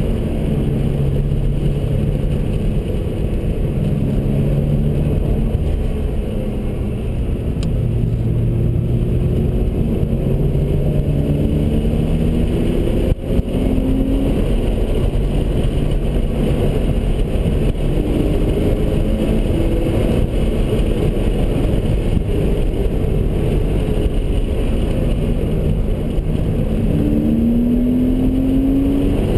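Sports car engine, heard from inside the cabin, lapping a race track: its note climbs repeatedly under acceleration and falls back between, over a steady rumble of road and wind noise. A short knock comes about 13 seconds in.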